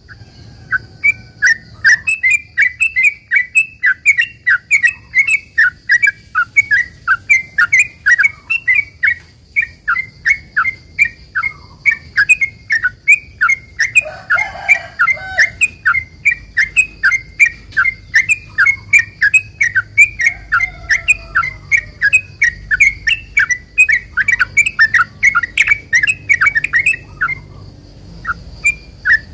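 Yellow-vented bulbul (trucukan) singing a long, rapid run of loud, bubbling chirped notes, about three a second, with a brief pause near the end.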